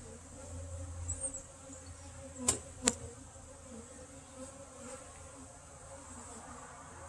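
Honey bees buzzing steadily around an opened hive. Two sharp knocks about half a second apart come about two and a half seconds in.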